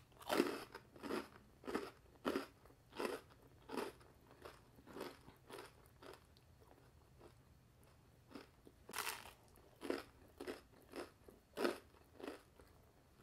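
A person biting and chewing toasted panini bread, a run of crisp crunches about one and a half a second that dies away midway and starts again a couple of seconds later.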